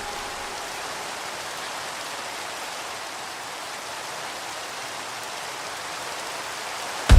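Steady rain recording: an even hiss of rain falling, with no music over it. Music comes back in suddenly right at the very end.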